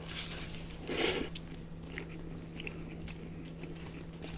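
Close-miked mouth sounds of someone chewing a chicken Big Mac, with small wet clicks and one louder moment about a second in, over a steady low hum.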